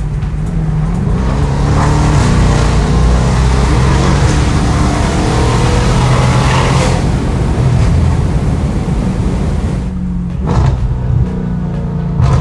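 Audi S7's twin-turbo 4.0-litre V8, upgraded with big turbos, pulling hard under full throttle with rising revs, heard from inside the cabin. It then eases off and quietens about ten seconds in as the car slows.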